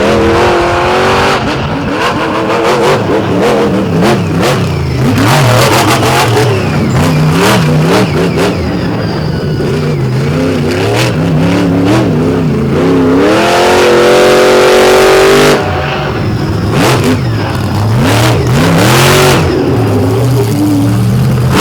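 Monster truck engine revving hard, its pitch rising and falling with the throttle. A long high rev near the middle cuts off suddenly, and several sharp bangs are heard along the way.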